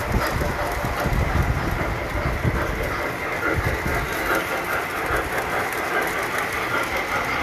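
Tinplate model train running on metal track: a steady rolling rumble with continuous small clicks and clatter from the wheels and rails.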